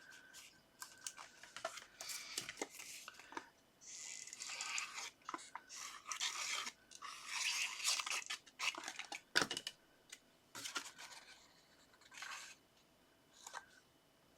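Paper and card being handled: on-and-off scratchy rustling and rubbing with a few sharp clicks, the loudest about nine and a half seconds in.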